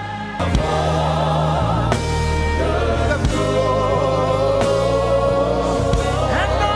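Live gospel worship music: a choir singing long, wavering held notes over sustained accompaniment, growing louder about half a second in.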